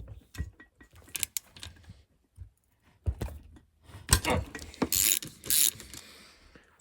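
Socket ratchet clicking in short, uneven runs as the cylinder head bolts of a lawn mower engine are broken loose, busiest about two-thirds of the way through.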